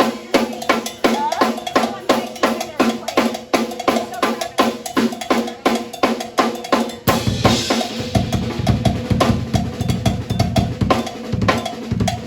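Drum solo on a drum kit: a fast, even run of strokes, about four to five a second, with heavy bass-drum hits joining in from about seven seconds in.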